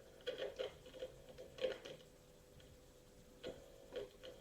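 Faint scattered clicks and taps of a test clip or probe being handled against a mixer's output connector, over a faint steady hum.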